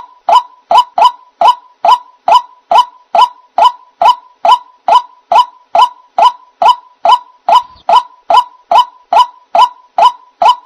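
White-breasted waterhen (ruak-ruak) calling: a loud, even series of short rising notes, about two and a half a second, used as a bird-trapping lure call.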